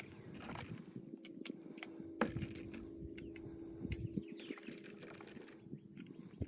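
Cartridges being loaded one by one into the cylinder of a Ruger Super Redhawk Alaskan .44 Magnum revolver: scattered metallic clicks and rattles, the sharpest about two seconds in. Birds chirp faintly in the background.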